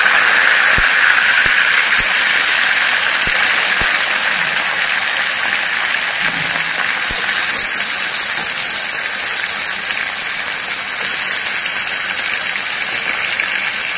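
Marinated chicken pieces sizzling steadily in hot oil in a steel kadai as they are added to the pan, with a few soft thuds near the start as pieces go in.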